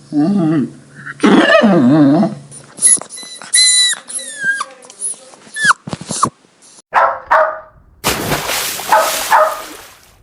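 Puppies barking and yelping in short calls, with high falling whimpers in the middle.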